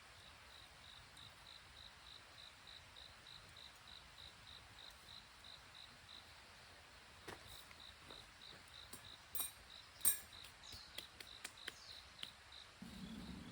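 Cricket chirping steadily, a high pulse about three times a second. In the second half a few sharp clicks and snaps break in, the loudest about ten seconds in, and a low steady hum starts just before the end.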